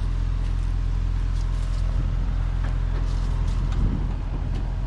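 An engine idling steadily: a deep, even hum, with a few faint clicks over it.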